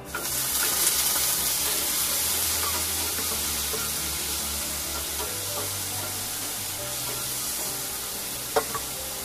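Food frying in hot oil in a pan: a loud, steady sizzle that starts suddenly and eases off a little, with one sharp knock near the end.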